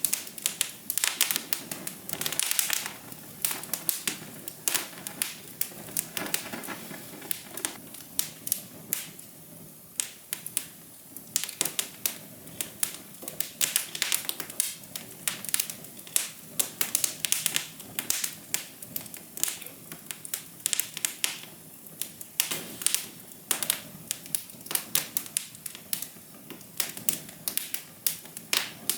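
Wood fire crackling: irregular sharp pops and snaps, some in quick clusters, over a steady low hiss of burning.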